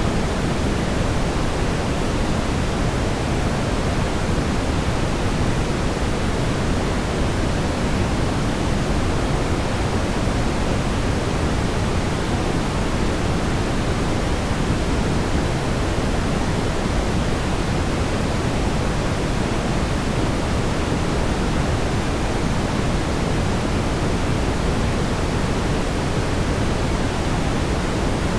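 Steady brown noise: a constant, deep rumbling hiss, heaviest in the bass and thinning toward the treble, with no change or events.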